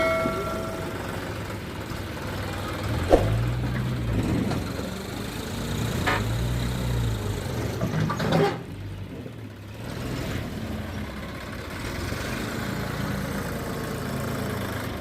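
Mahindra 475 DI tractor's diesel engine idling, revved up and let back down twice, about three and six seconds in.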